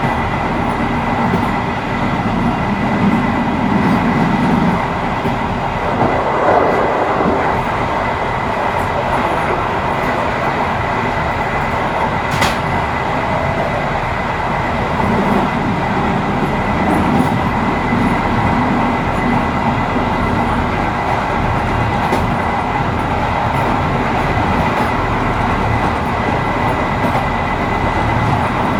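Train running at speed, heard from inside its rear cab: a steady rumble of wheels on the rails with a constant high whine, and a sharp click about twelve seconds in.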